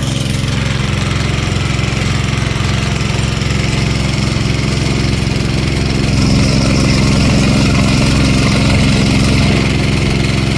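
Small gas engine of a gold dredge running steadily at a constant speed, with a fast even beat. It gets a little louder from about six seconds in until shortly before the end.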